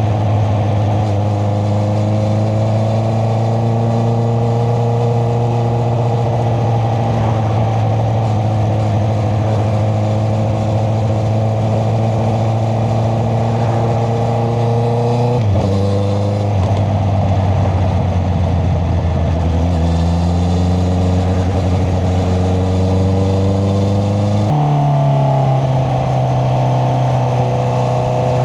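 Honda CBR650R's inline-four running through an Akrapovic exhaust while riding; the engine note climbs slowly, drops suddenly at a gear change about halfway, climbs again, and steps up sharply near the end.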